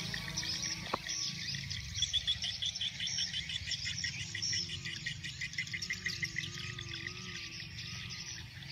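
Insects and birds chirping, with a fast, even run of chirps a couple of seconds in and a faint wavering tone near the end.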